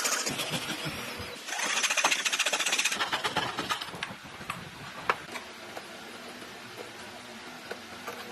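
Power tool working wood with a fast, even rattle in two bursts of about a second and a half each, then stopping; a few light clicks and knocks follow.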